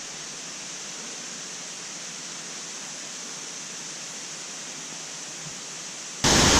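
Steady rushing of a waterfall, softer and thinner at first, then suddenly much louder and fuller near the end.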